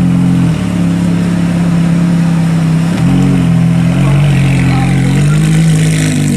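Ferrari F430 Spyder's 4.3-litre V8 running loud through a decatted exhaust, with the catalytic converters removed, held at steady revs. Its pitch shifts up and down in small steps about halfway through and twice more near the end.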